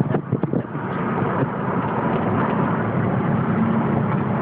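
Vehicle driving: steady engine and road noise that gets louder about a second in, then holds steady.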